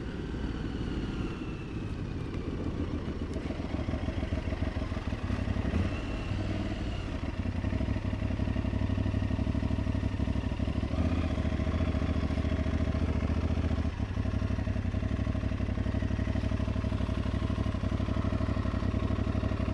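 Aprilia Tuareg 660's parallel-twin engine running at low speed with a few falling notes as the bike slows, then running evenly at a steady low speed, likely idling.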